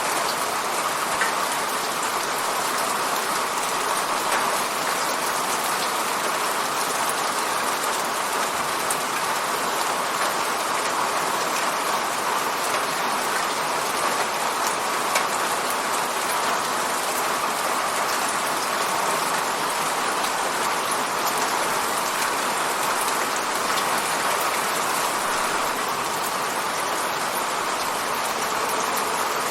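Steady rain pattering on a window, an even hiss of drops with a few sharper individual drop ticks now and then.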